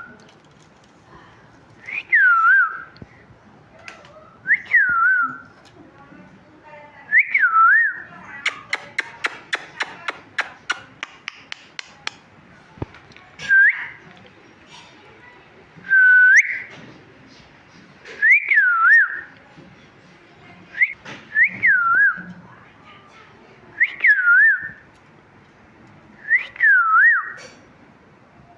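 Pet parrot whistling: about ten short swooping whistles, each rising and falling, repeated every two to three seconds. A run of rapid clicks, about four a second and fading, comes near the middle.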